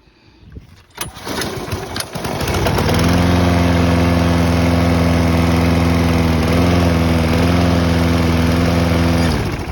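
Briggs & Stratton 6.7 hp lawn mower engine starting about a second in, picking up speed and running steadily, then shutting off shortly before the end. It now starts and runs after its carburettor was cleaned.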